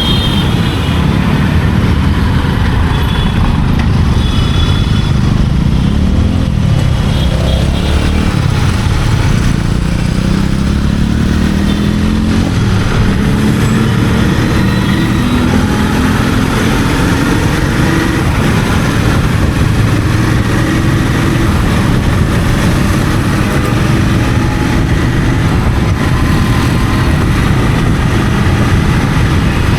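Royal Enfield Continental GT 650's 648 cc parallel-twin engine running through its stock exhaust while riding. The engine note dips about six seconds in, climbs over the next few seconds as the bike picks up speed, then holds steady at a constant throttle.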